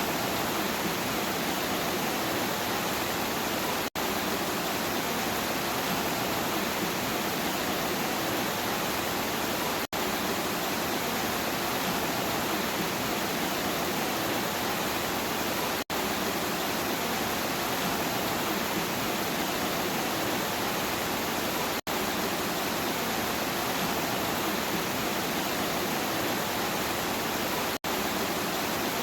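Steady heavy rain, an even hiss with no thunder, broken by a brief dropout about every six seconds where the recording loops.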